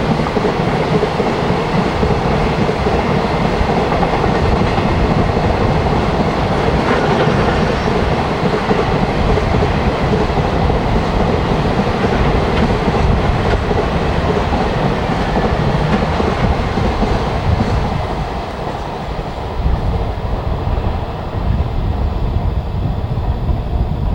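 Japanese JR Freight high-speed freight train passing, its wagons' wheels running over the rails in a loud continuous rumble and clatter. The higher part of the noise thins out over the last few seconds.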